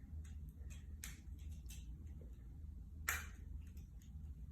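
Small sharp plastic clicks as a visor clip is twisted in the seam of an older LiftMaster garage door remote's case to pry the cover off. There are a few faint ticks, then one sharper click about three seconds in.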